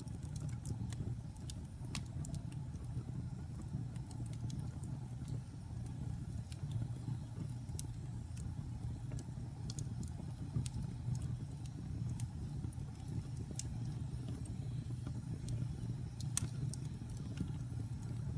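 Fire burning in a fireplace: a steady low rumble of flames with irregular sharp crackles and pops, a few louder snaps among them.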